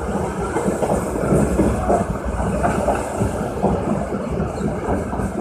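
Passenger train running at speed, its wheels rattling and clattering steadily over the rails as it crosses the Ganga river bridge.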